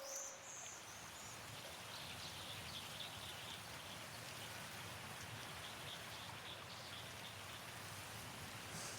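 Steady rain-like hiss of outdoor ambience, with faint high chirping during the first few seconds.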